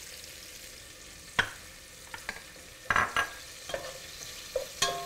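Sliced onion and garlic frying in olive oil in a pot: a faint steady sizzle. A few sharp knocks come through as a wooden spoon stirs fresh basil in.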